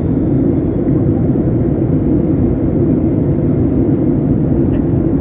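Airliner cabin noise during the descent to land: a steady, even low rush of engines and airflow heard from a passenger seat.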